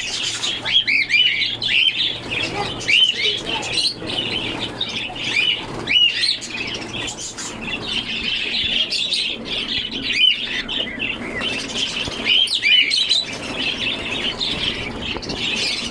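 A crowd of caged small parrots (budgerigars, cockatiels, lovebirds and parakeets) chirping and squawking over one another in a dense, continuous chatter of short high calls.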